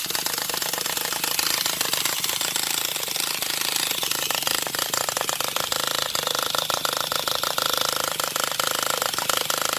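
Traxxas Revo 3.3 nitro engine being spun over by its starter without catching: a steady, fast mechanical rattle. The owner thinks this sound seems to show no compression.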